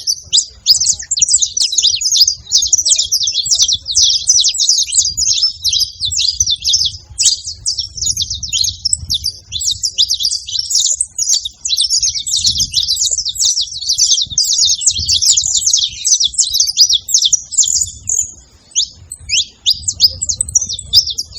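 Saffron finches singing: a dense, nearly unbroken stream of fast, high chirps and trills, with a faint low rumble underneath.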